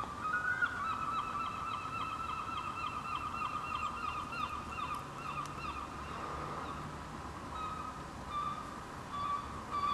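Seagulls calling: a fast, unbroken run of repeated high notes for about seven seconds, then shorter, separate calls near the end.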